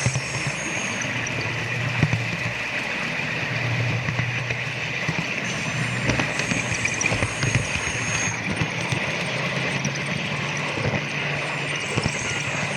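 Model train running along its track: a steady hum with many irregular clicks of the wheels over the rails and joints.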